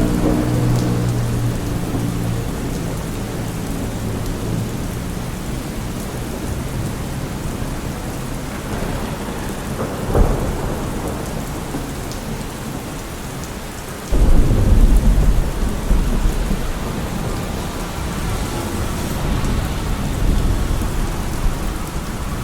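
Steady heavy rain falling, with a low rumble of thunder that starts suddenly about two-thirds of the way through and dies away over several seconds; a shorter low thud comes a few seconds earlier. A passing vehicle's hum fades out in the first second.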